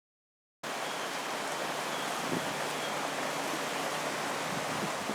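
Steady rushing noise of storm wind and rain, cutting in abruptly about half a second in after digital silence.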